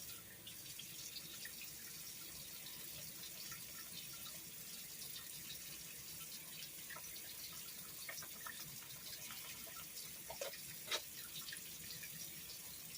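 Tap water running steadily into a sink while a bar of handmade soap is lathered in wet hands, with a few faint wet clicks and one short louder sound about eleven seconds in.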